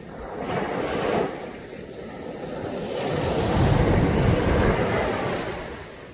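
Caribbean sea waves breaking on a beach: a short wash about half a second in, then a bigger wave building to a deep, full break around four seconds and drawing back.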